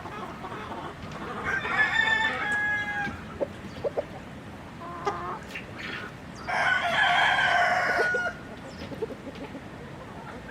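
Rooster crowing twice, each crow lasting between one and a half and two seconds, with chickens clucking briefly in between.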